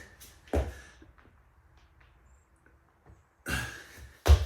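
A person breathing hard through burpees, with sharp exhales about half a second in and again near the end. A loud short thud of the body landing on the floor comes just before the end.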